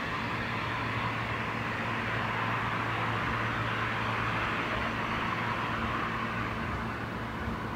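Hankyu commuter train at the station: a steady rushing noise over a low electrical hum, and the hum stops near the end.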